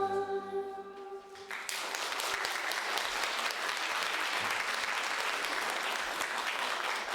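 The last held chord of a song dies away, and about a second and a half in an audience breaks into steady applause.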